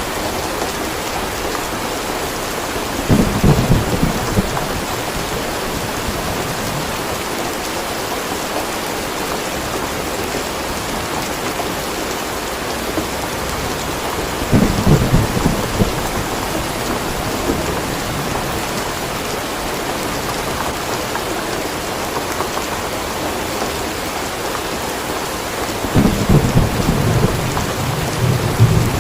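Steady rain falling, with three low rumbles of thunder: about three seconds in, about halfway through, and a longer roll starting near the end.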